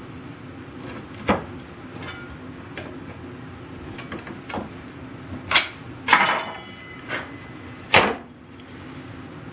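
Wooden parts of a machinist's tool chest being handled and fitted: about five scattered sharp knocks and clacks, one about six seconds in ringing briefly with a metallic tone, over a steady low hum.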